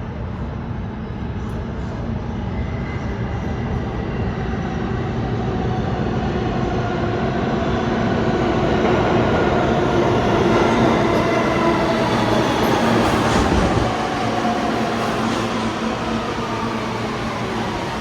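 New York City subway train running, growing louder to a peak about ten to thirteen seconds in, then dropping off at about fourteen seconds.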